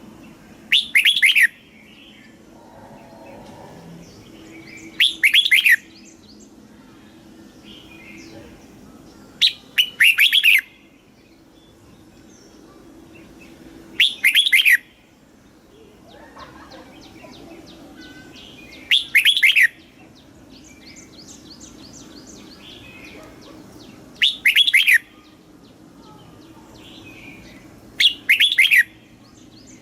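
Red-whiskered bulbul singing: seven short, loud whistled phrases, each a quick double burst of falling notes, repeated every four to five seconds. Fainter chirps from other birds and a low steady hum run underneath.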